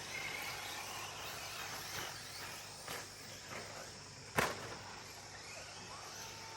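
Electric RC short course trucks racing. A faint motor whine rises and falls, broken by sharp knocks from the trucks hitting the track, the loudest about four and a half seconds in, over a steady high-pitched background drone.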